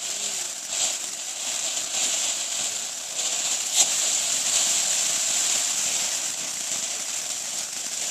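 Ground fountain firework spraying with a steady hiss, with a sharp pop about four seconds in.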